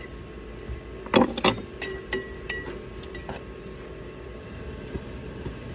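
A spoon clinking and scraping against a pan while stirring, with several sharp taps, some leaving a short ring, over a steady hum.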